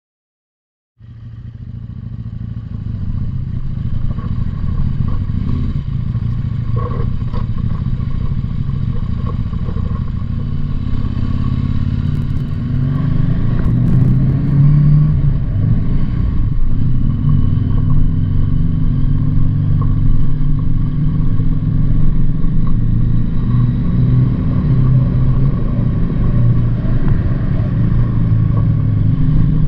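Motorcycle engine running steadily on the move, fading in about a second in, its pitch rising and falling a little with the throttle.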